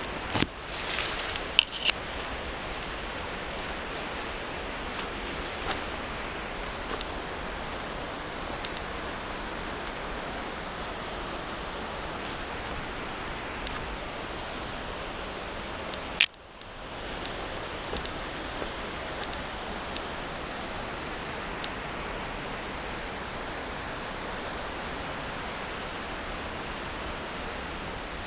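Steady rush of flowing river water. A few sharp clicks near the start and another about sixteen seconds in.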